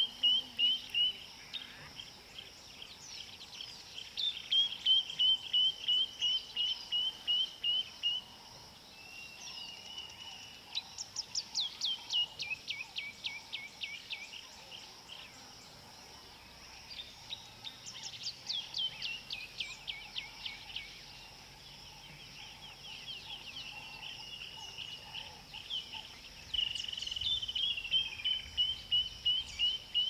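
Small bird singing, a series of short repeated notes at about two a second, broken a few times by quick runs of falling notes. A steady high hiss runs beneath.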